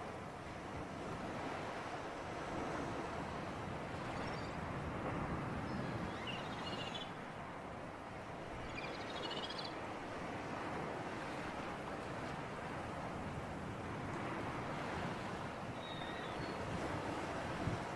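Sea surf and wind making a steady wash of noise that swells and eases gently. A few faint, short high chirps come through about a third of the way in, just after, and again near the end.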